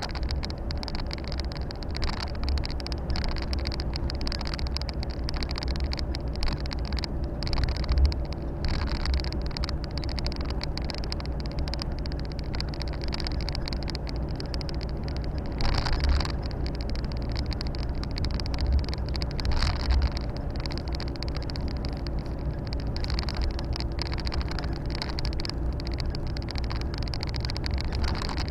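Volvo FH 460 truck's 13-litre six-cylinder diesel running steadily under way, heard from inside the cab as a low drone with road and wind hiss. A few brief louder thumps come through, at about 8, 16 and 20 seconds in.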